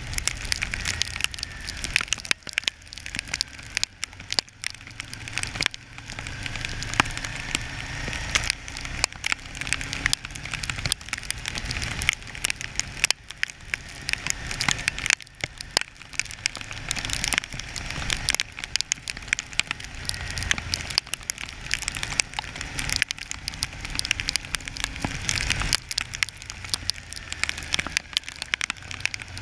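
Raindrops striking an action camera's housing as a dense, irregular crackle of sharp ticks, over the low rumble of wind and a motorcycle engine while riding in the rain.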